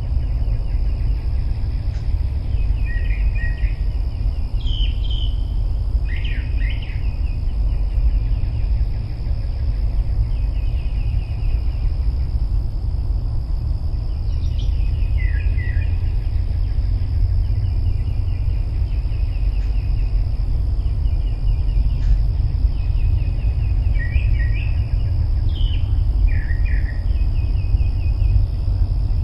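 Wind buffeting the microphone as a steady low rumble, under a steady insect trill. Short bird chirps break in now and then, in clusters about 3 to 7 seconds in, around 15 seconds, and again near the end.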